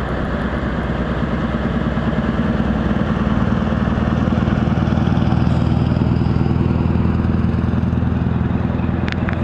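Scania R500's V8 diesel engine running steadily at a low, even speed. It grows a little louder over the first few seconds, then holds.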